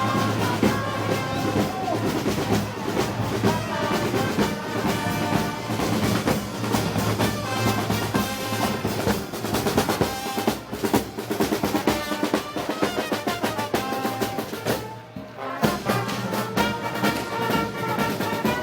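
Brass band with drums playing festival music: snare rolls and bass drum under held brass chords. The music drops away briefly about fifteen seconds in, then starts again.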